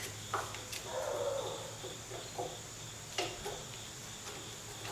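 A few sharp clicks from hand work on small metal parts, with a brief low murmur about a second in, over a steady background hum.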